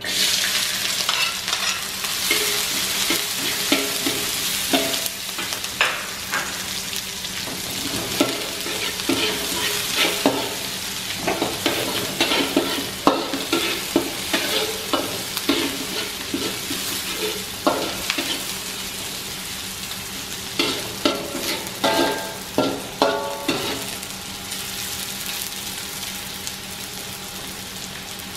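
Chopped shallots and garlic sizzling in hot oil in an aluminium wok, stirred with a metal spatula that scrapes and clinks against the pan. The sizzle starts suddenly as the aromatics go in, then slowly dies down.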